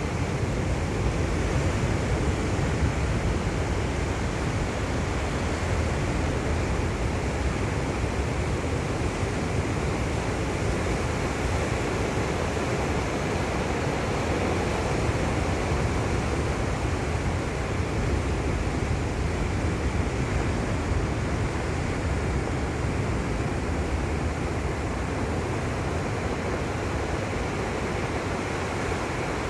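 Ocean surf: waves breaking and washing in, a steady deep rushing sound with no pause.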